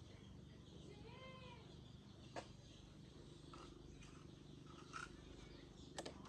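A cat meowing once, a short call that rises and falls in pitch about a second in, over a faint steady low hum, with a couple of light clicks later on.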